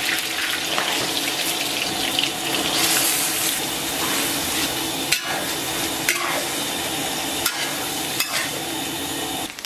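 Strips of pork liver and lung sizzling in hot oil in a large wok while being stirred with a spatula, which scrapes and taps against the wok now and then.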